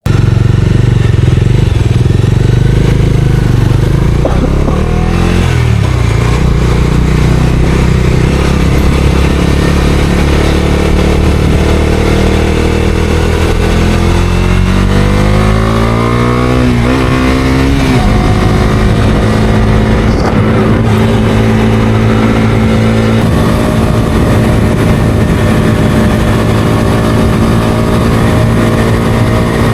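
Bajaj Dominar 250's single-cylinder engine running while riding. Past the middle its pitch climbs steadily for a few seconds as the bike accelerates, breaks briefly, then holds a steady note.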